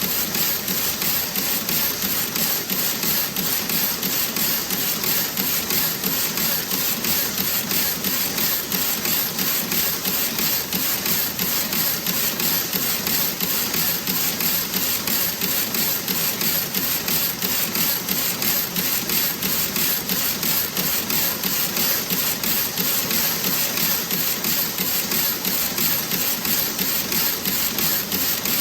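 Toe-sock knitting machine running: a steady mechanical clatter with a fast, even beat that holds without change.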